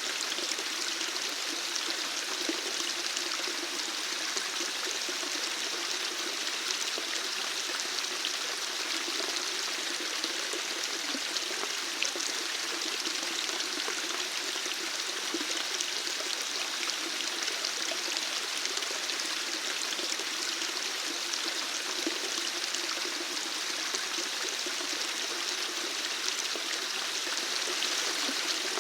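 Flowing water, running steadily with an even rushing and splashing.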